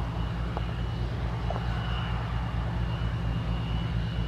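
Aircraft engine running steadily: a low rumble with a faint, steady high whine above it.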